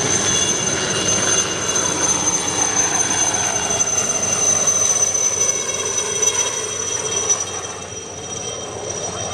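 Jet aircraft flying past at an air show: a loud, steady rush of engine noise with a high whine, its pitch falling slowly as it passes. The sound eases slightly near the end and then cuts off abruptly.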